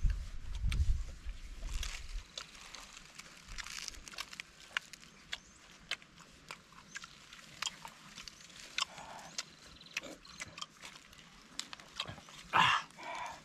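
People eating crispy fried mole crickets: scattered sharp crunches and wet chewing and mouth smacks, with a louder burst of chewing noise near the end.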